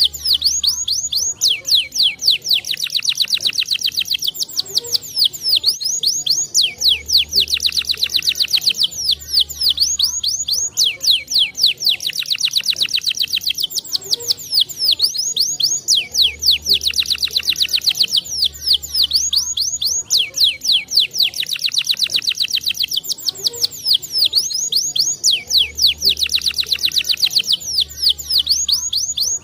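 Domestic canary singing a continuous song of very fast, high trills, phrase after phrase with only brief breaks.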